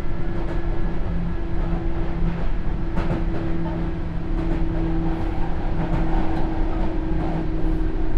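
Sotetsu New 7000 series electric train running, heard from inside the car: a steady two-note hum from its traction equipment over wheel-and-rail rumble, with a sharp click from the rails about three seconds in.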